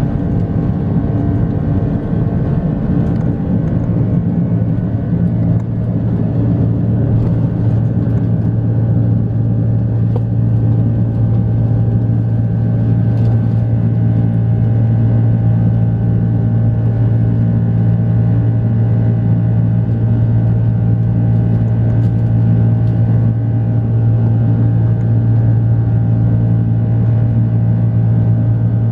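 Airbus A330-300's Rolls-Royce Trent 700 jet engines running with a steady low drone and hum, slightly louder from about four seconds in.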